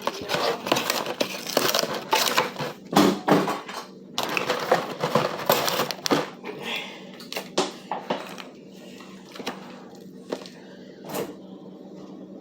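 Crunching and chewing of crispy fried chicken close to the microphone, a dense crackle of bites for about six seconds that thins to scattered crunches. A faint steady hum sits underneath.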